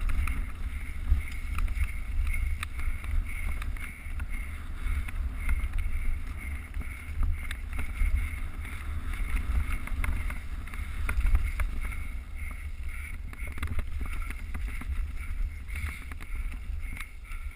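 Wind buffeting the microphone of a mountain bike's action camera while riding, with tyre rumble and many small scattered knocks and rattles from the rough trail.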